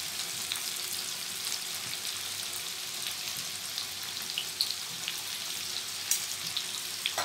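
Bitter gourd (karela) slices coated in gram flour and cornflour deep-frying in hot oil: a steady sizzle with scattered crackling pops.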